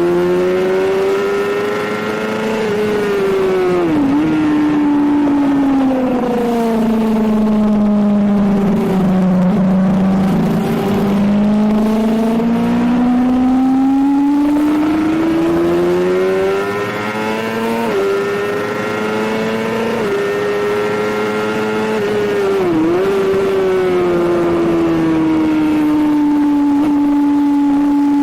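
Suzuki GSX-R750 K7 sport bike's inline-four engine running hard on a race track, its pitch rising and falling with throttle and gear changes. Short sharp dips in revs come about four seconds in and again near the end, the revs sink lowest near the middle and then climb back up before levelling off.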